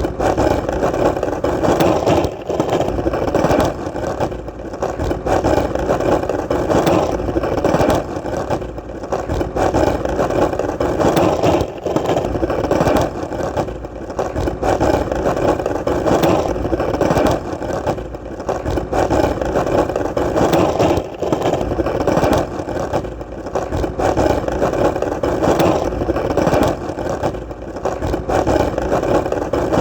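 Skateboard wheels rolling on hard ground: a steady rolling noise that dips briefly every few seconds, with small knocks along the way.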